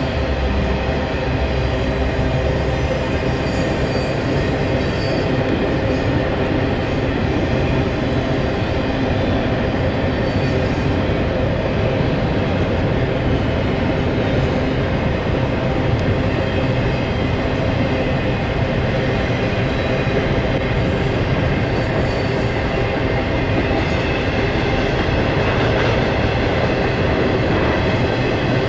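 Union Pacific intermodal freight train rolling past. There is a deep low rumble in the first few seconds as the diesel locomotives go by, then a steady rolling rumble of double-stack container cars and trailer flatcars on the rails, with brief faint wheel squeals now and then.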